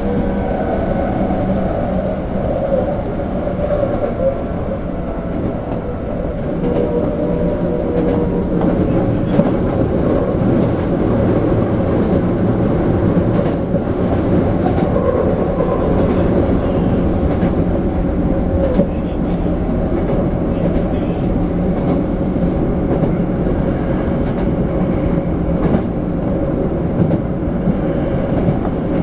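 Toei 5300 series electric train running, heard from inside the passenger car: a steady rumble of wheels on rails with a few steady motor tones over it and occasional clicks from the track.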